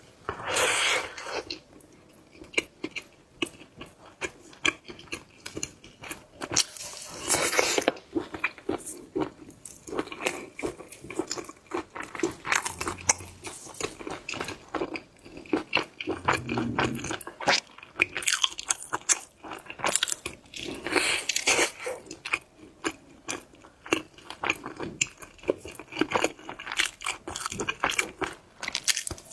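Close-miked biting and chewing of crab, with repeated crunches and many short sharp clicks.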